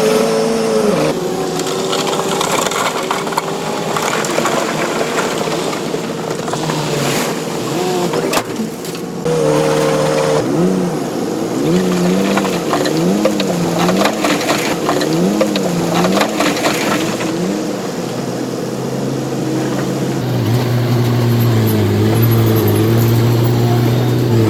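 Bulldozer's heavy diesel engine working, its pitch repeatedly rising and falling as the load changes, with scattered knocks, steadying into a constant low drone near the end.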